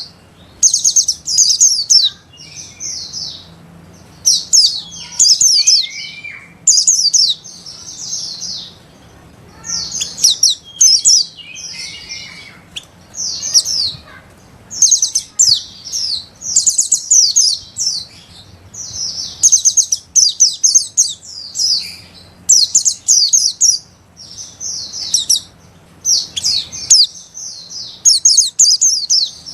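White-eye (pleci) singing in short, rapid, high twittering phrases, about one a second with brief pauses between them. This is the fast ngeriwik song used to train young pleci.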